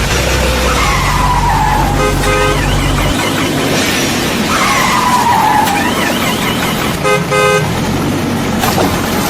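Cartoon vehicle sound effects: a low tractor engine rumble that stops about three seconds in, two falling whines, and two quick bursts of rapid horn toots, about two seconds in and again near seven seconds.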